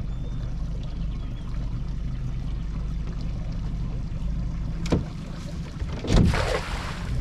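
Small boat's outboard motor idling steadily, with a sharp knock about five seconds in and a short splash about six seconds in as a thrown cast net hits the water.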